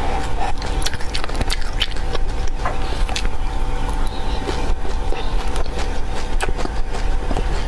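Crunchy chewing of dry seeds close to the microphone: irregular sharp cracks and clicks, several a second, over a steady low rumble.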